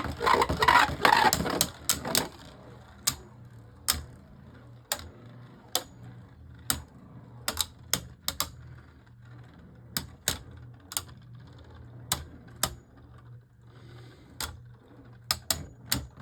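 Two Beyblade Burst spinning tops battling in a plastic stadium. They clatter rapidly for about the first two seconds, then collide in sharp separate clicks about once a second, over a faint low whir of spinning.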